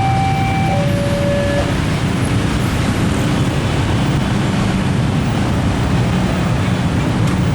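A fast train passing at speed: a steady, loud rumble and rush of noise. At the start, a two-note tone alternates between a higher and lower pitch and stops about a second and a half in.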